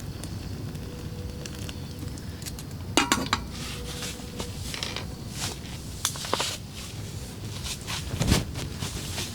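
Metal cookware and utensils clinking and knocking a few times, loudest in a quick cluster about three seconds in, over a steady low background noise.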